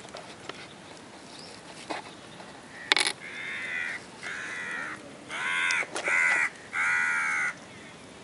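A bird calling five times in quick succession, each call about half a second long, just after a sharp click about three seconds in.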